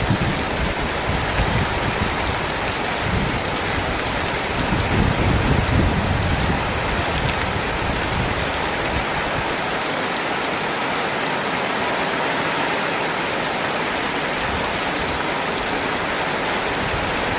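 Steady rain falling: an even hiss of many drops, with some low rumbling in the first half.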